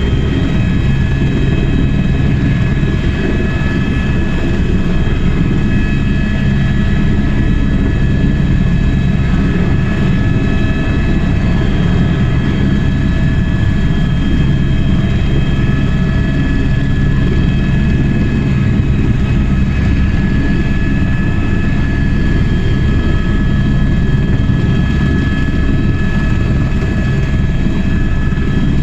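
Tour helicopter in flight, heard from inside: a steady low rotor and engine rumble with a constant high turbine whine over it.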